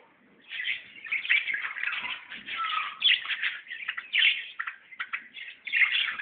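Many small birds chirping together in dense, overlapping short calls, after a brief lull at the start.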